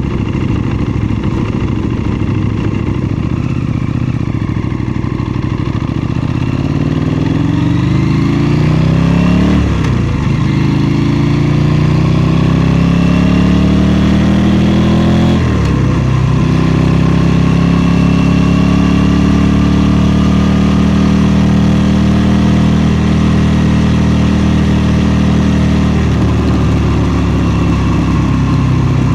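KTM 790 Duke's parallel-twin engine under way: a steady lower note at first, then accelerating and rising in pitch, with two quick upshifts about ten and fifteen seconds in. It then climbs more slowly and holds a steady note.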